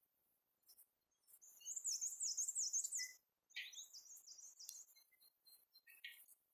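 A small songbird singing two quick runs of high, thin, repeated chirping notes, each lasting a second or so, with a short break between and a few stray notes afterwards; faint.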